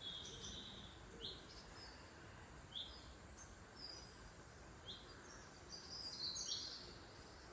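Faint birdsong over a steady outdoor background hiss. Short high chirps come about once a second, with a busier run of calls around six seconds in.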